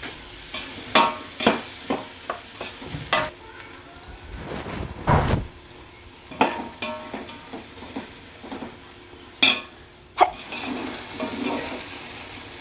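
Chopped tomatoes frying in hot oil and masala in a large metal pot, sizzling steadily while a perforated metal spatula stirs them, scraping and knocking against the pot at irregular moments.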